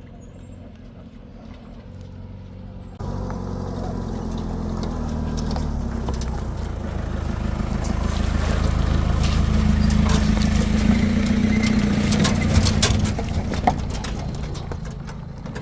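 A motor vehicle's engine running, with a sudden jump in loudness about three seconds in. It grows louder toward the middle, then eases off near the end.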